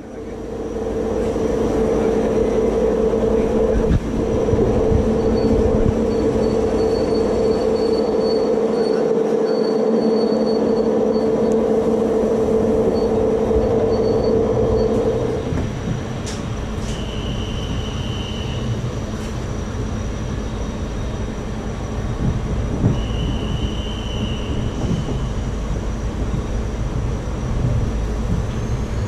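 Passenger train coaches running slowly out of a station, a steady rumble and rattle of wheels and bodywork. Through the first half a steady high tone rides over it, then stops about halfway through.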